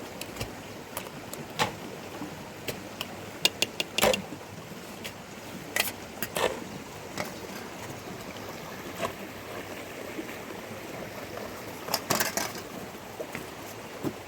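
Steady background hiss with scattered sharp knocks and clicks, a cluster of them about three to four seconds in and another around twelve seconds in.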